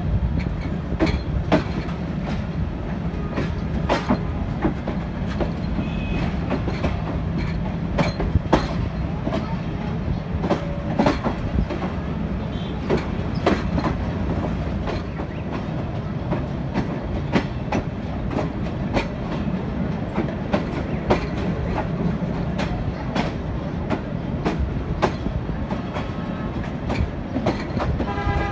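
Passenger train coaches running along the track, heard from an open coach doorway: a steady low rumble with irregular clicks and clatter as the wheels cross rail joints and points. A horn starts to sound right at the end.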